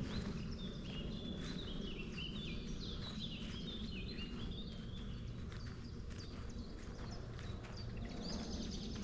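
Footsteps along a forest trail, with a songbird singing a quick run of warbled, stepping notes through the first half and a few higher, sharper notes near the end.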